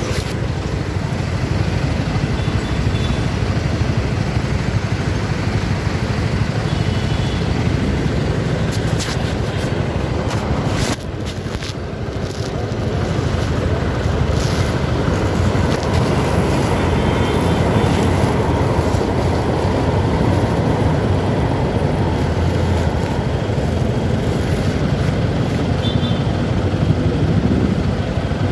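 CFMoto 300SR motorcycle being ridden, its engine running under a steady rush of road and wind noise. The sound eases off briefly about eleven seconds in, then builds back up and holds steady.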